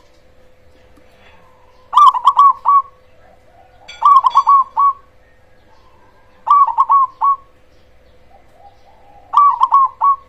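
Perkutut cemani, a black zebra dove, cooing. It sings four phrases a couple of seconds apart, each a quick run of rolling notes. A faint steady hum lies underneath.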